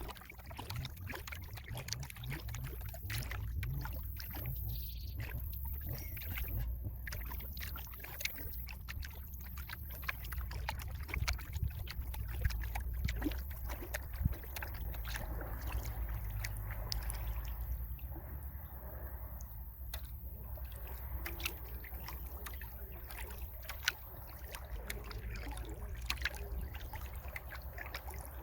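Kayak paddle dipping into the water of a small river, with many small splashes and drips. A steady low rumble runs underneath.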